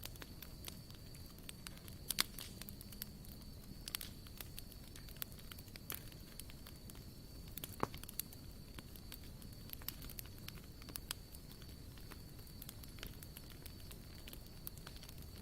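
Wood campfire burning and crackling, with irregular sharp pops and snaps, the loudest about two seconds in and near the middle, over a low steady rumble of the flames. A faint steady high tone runs underneath.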